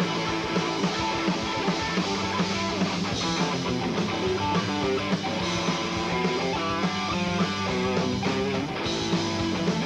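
Rock band playing an instrumental passage between vocal lines: electric guitar over bass and drums, with a steady beat about twice a second.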